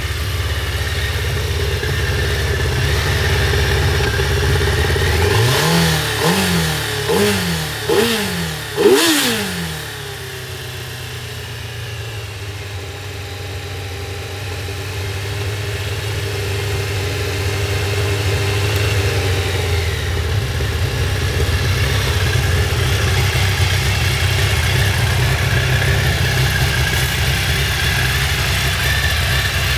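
2002 Suzuki Hayabusa's inline-four idling on a cold start with the choke on. About five quick throttle blips come in a row a few seconds in. It then drops to a lower idle that slowly climbs as the engine warms.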